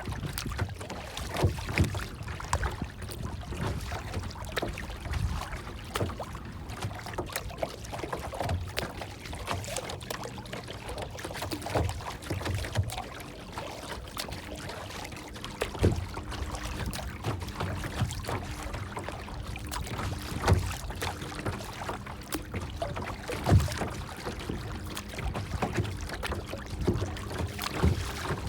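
Water lapping and sloshing, with irregular small knocks and low thumps.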